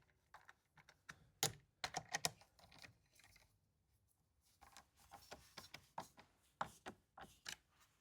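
Faint, irregular clicks and taps of a hand screwdriver working the screws of a replacement recoil starter on a Stihl MS180c chainsaw's plastic housing, tightened by hand. The clicks come in two clusters with a pause in the middle.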